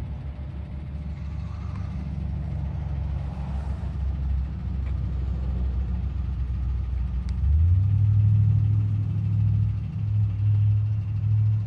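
Vehicle engine running with a steady low hum as it rolls through a parking lot; about two-thirds of the way through the hum steps up in pitch and gets louder as it speeds up.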